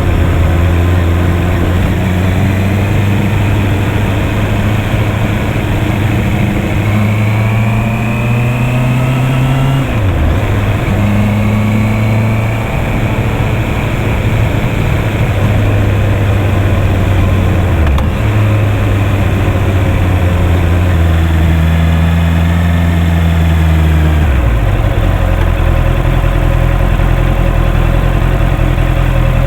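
Honda CB650R's 649 cc inline-four engine running under way, its pitch rising with throttle and dropping sharply at shifts or when the throttle is rolled off, about ten seconds in and again later. About 24 seconds in it settles to a lower, steady note.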